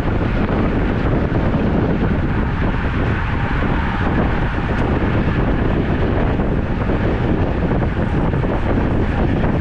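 Wind buffeting a camera microphone on a moving road bike: a loud, steady rush of noise.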